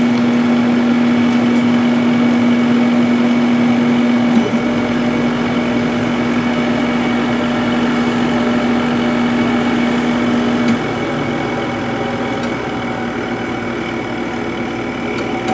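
Sharp 8500 BTU window air conditioner running on test, its fan blowing with a steady mechanical hum. A deeper low hum joins about four and a half seconds in. A little before eleven seconds the strong hum drops out and the sound eases slightly.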